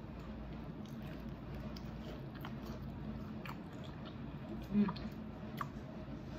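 Close mouth sounds of a person biting into a birria taco and chewing it, with small wet clicks scattered throughout. A brief low hum of the voice about three-quarters of the way through is the loudest moment.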